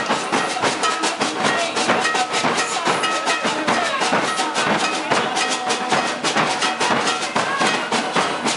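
Maracatu de baque virado percussion ensemble playing a dense, driving rhythm on drums and shakers, with voices singing over it.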